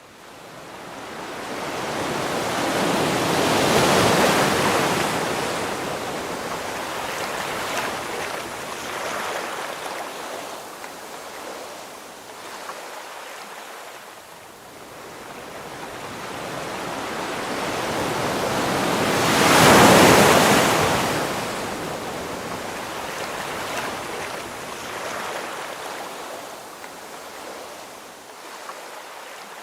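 Ocean waves breaking on the shore and washing back, two big swells building to a crash about 4 seconds in and, louder, about 20 seconds in, with softer surf between.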